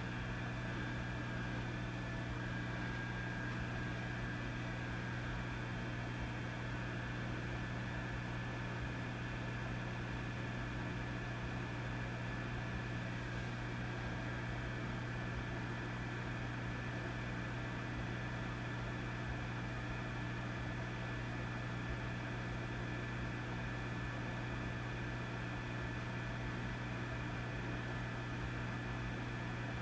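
Vintage tube amplifier idling with no signal: a steady low electrical hum with a stack of higher hum tones over a layer of hiss.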